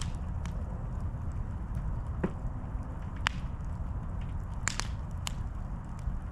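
Campfire crackling: a handful of sharp pops and snaps over a steady low rumble, the loudest pops a little past halfway through.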